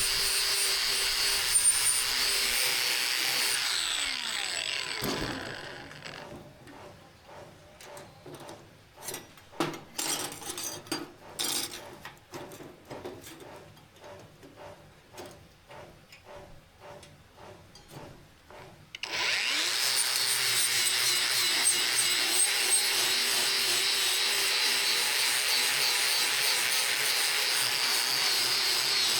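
An electric power tool working the steel of an old saw blade, which spins down with a falling whine about five seconds in. A run of quieter scraping strokes follows. At about nineteen seconds the tool starts again with a rising whine and runs steadily.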